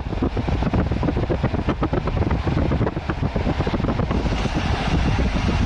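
A passenger train running along the track, heard through an open carriage window: a steady low rumble with wind rushing past and buffeting the microphone.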